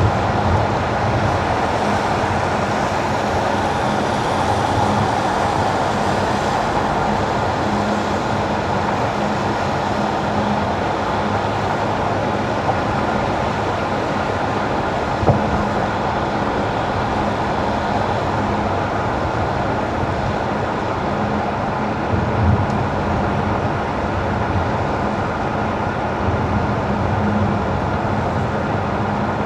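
Car driving on wet winter asphalt: a steady hiss of tyres on the wet road with a constant low hum, and a couple of brief light knocks partway through.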